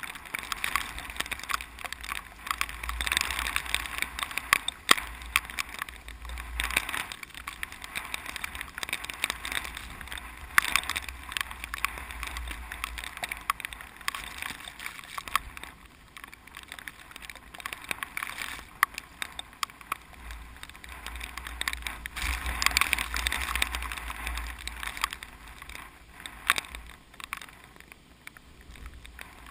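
Typhoon wind gusting, swelling and easing every few seconds, with a deep rumble of wind buffeting the microphone and many scattered sharp ticks.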